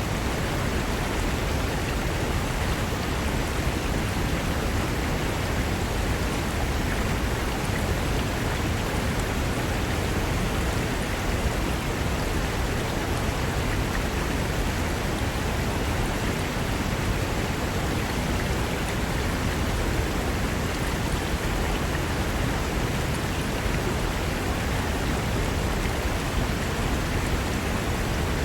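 Fast-flowing mountain river rushing over rocks, a steady, unbroken roar of water.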